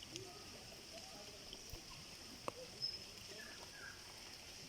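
Faint outdoor background with distant voices talking, under a steady high-pitched hiss; a single sharp click about two and a half seconds in.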